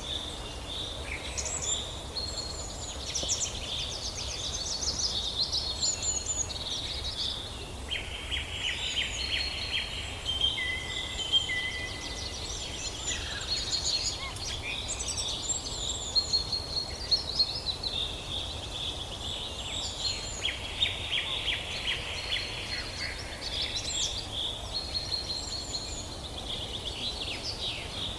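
A chorus of several songbirds chirping and trilling at once, in quick, overlapping phrases, over a steady low rumble.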